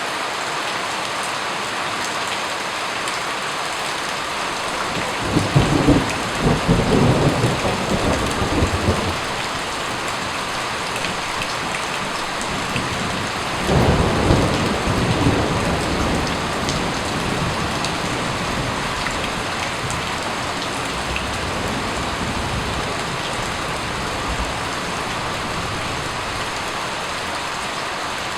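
Steady rain with two rolls of thunder: one rumbles from about five seconds in for several seconds, and a second breaks more sharply about halfway through and fades slowly.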